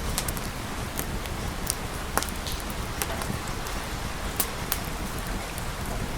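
Steady rain with deep, even noise underneath and scattered sharp crackling pops, several a second at times.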